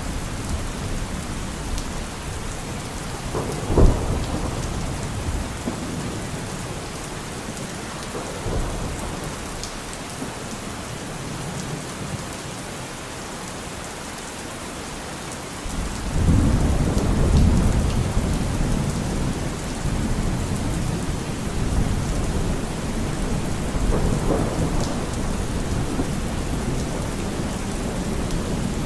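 Steady rain falling, with thunder: a sharp crack about four seconds in, then a long, low rolling rumble starting a little past the middle.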